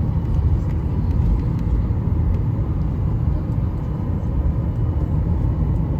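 Steady low rumble in an airliner's cabin while the plane taxis on the ground before takeoff.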